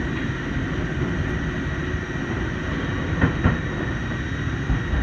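Electric commuter train running, heard from inside the passenger car: a steady rumble of wheels on track with a faint high hum, and two sharp knocks close together about three seconds in as the wheels pass over the track.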